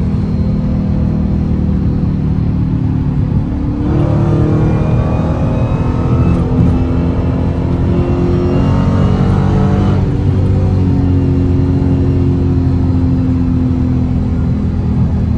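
Dodge Hellcat's supercharged 6.2-litre Hemi V8, running with its mid-muffler deleted. It cruises steadily at first, then about four seconds in it accelerates hard under full throttle, the engine note climbing for about six seconds, before it settles back to a steadier note.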